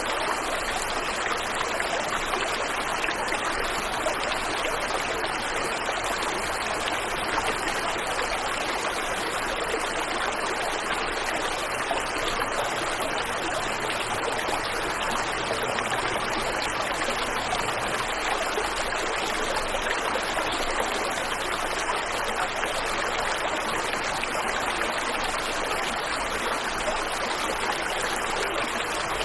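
Waterfall and river water rushing: a steady, even wash of flowing water with no separate splashes, birds or other events standing out.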